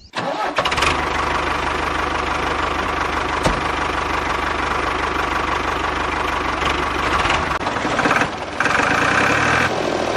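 An engine running steadily at idle with a knocking, tractor-like beat. Its tone changes near the end.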